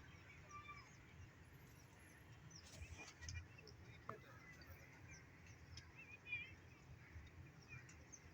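Faint bird chirps and calls, including a short wavering trill about six seconds in, over a low rumble.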